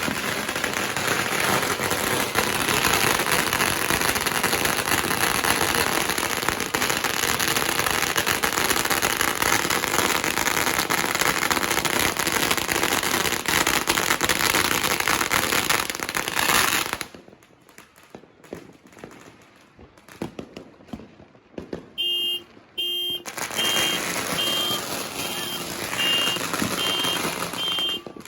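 Strings of firecrackers going off in a dense, continuous crackle that cuts off abruptly about two-thirds of the way through. Near the end a high electronic beep starts repeating a little faster than once a second, like a vehicle's reversing alarm.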